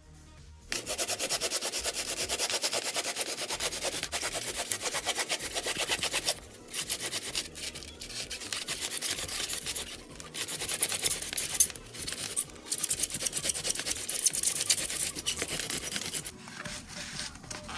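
Hacksaw blade scraping and sawing rapidly through insulation foam, gouging out a river channel. It runs steadily for several seconds, then continues in broken runs with short pauses.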